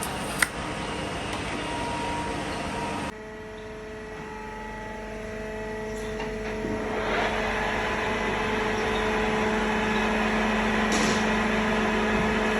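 Metal lathe running while turning a steel shaft: a steady machine hum with several held tones. A sharp click comes shortly after the start; about three seconds in the sound drops abruptly, then grows gradually louder.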